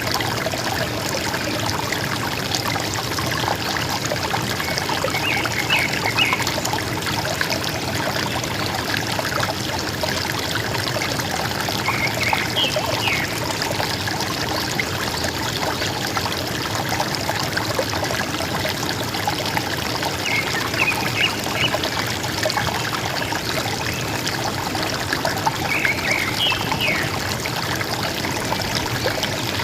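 River water running and gurgling in a steady rush, with a bird giving a short call of a few quick notes about every six to seven seconds.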